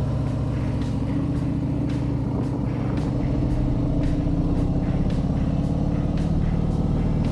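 Harley-Davidson Sport Glide's V-twin engine running steadily under way, with a constant even rumble.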